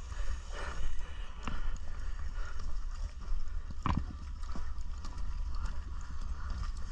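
Footsteps and light knocks of someone walking, with a sharper knock about four seconds in, over a steady low rumble.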